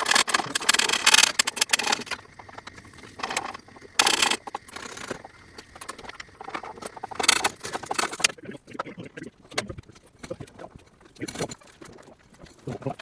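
Irregular clatter and rustling of parts and tools being handled during truck front-end disassembly, in several louder bursts with scattered clicks between.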